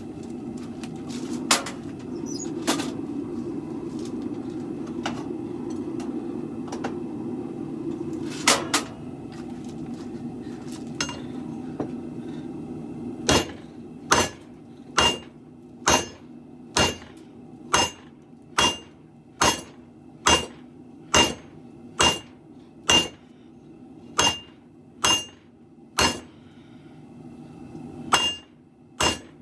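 Forging hammer striking metal on an anvil. A few scattered blows over a steady low hum at first, then from about halfway a steady run of ringing blows, roughly one a second.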